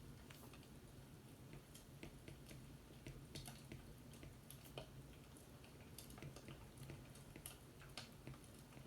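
Faint fireplace crackling: irregular small pops and snaps over a low, steady background.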